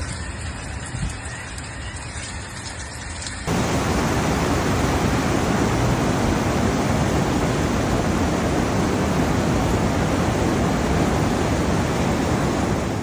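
Heavy torrential rain, a dense steady hiss. It jumps abruptly to a much louder downpour about three and a half seconds in.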